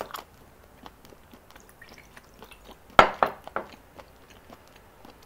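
Close-miked chewing and small mouth sounds of someone eating, with soft scattered clicks and one sharp knock about three seconds in.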